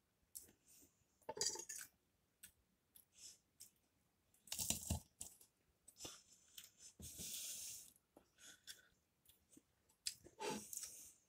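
Faint, intermittent chewing and crunching of a puff-pastry pork roll being eaten, with a few small clicks of a metal fork on the plate. A longer soft hiss comes about seven seconds in.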